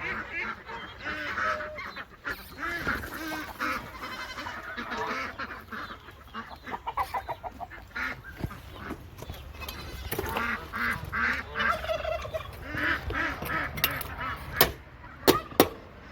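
A flock of geese honking and calling over one another, with a few sharp knocks near the end.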